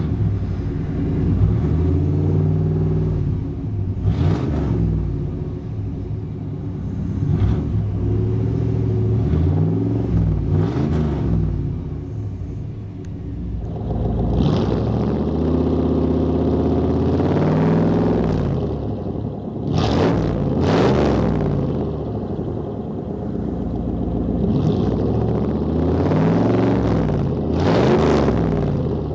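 1991 Chevrolet Silverado's 5.7-litre V8 running with a muscular exhaust note, revved again and again so that the pitch rises and falls back to idle about eight times.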